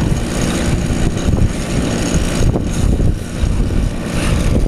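Strong wind buffeting the microphone in a blizzard: a loud, steady rumbling roar.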